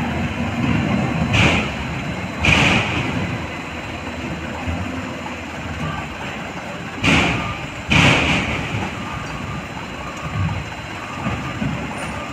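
Diesel truck engines running steadily at idle. Four short, loud noises stand out, in two pairs about a second apart, the second pair about five seconds after the first.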